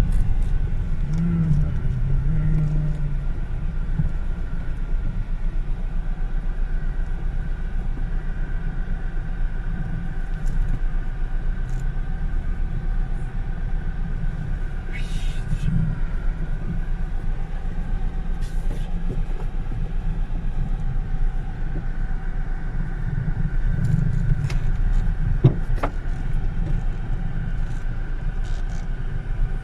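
Steady low rumble of a car being driven, engine and road noise, with one sharp click near the end.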